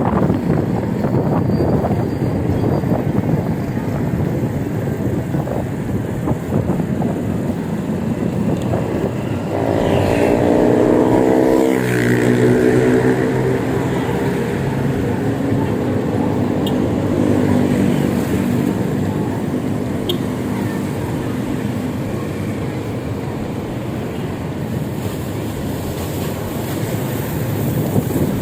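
Wind buffeting the microphone while riding along a road, with a motor vehicle's engine passing close by from about ten seconds in: its pitch drops sharply as it goes past, then it fades away.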